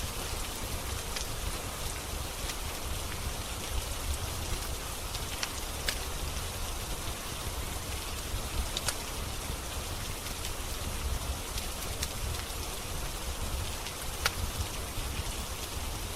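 Steady rain falling, with a few sharp crackles from a wood fire in a fireplace.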